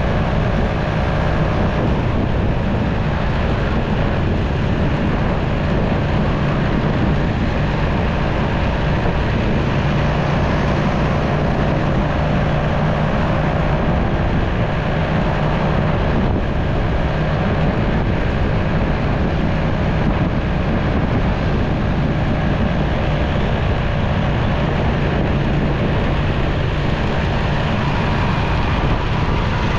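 Motorcycle riding at a steady pace in busy traffic: engine running with a steady low hum under a dense wash of wind and road noise.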